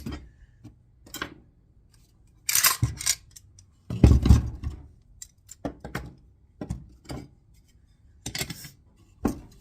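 AK-pattern Saiga 545 rifle being field-stripped: a string of short metallic clicks, slides and clanks as its parts are worked loose and taken out, the loudest about four seconds in.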